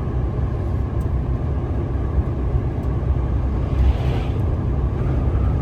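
Inside a moving semi-truck's cab: steady low rumble of the diesel engine and tyres on the road, with a brief swell of hiss about four seconds in.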